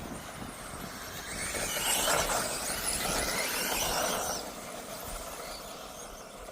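1/10-scale electric 2wd off-road RC buggies racing, with their motors and gears whining. The sound swells for a few seconds as the cars come close, then fades.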